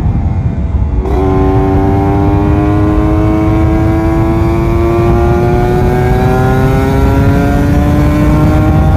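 Kawasaki Ninja RR 150's two-stroke single-cylinder engine under throttle on the road. About a second in the note jumps up, then it holds high revs, climbing slowly and steadily, over a low rumble of wind on the microphone.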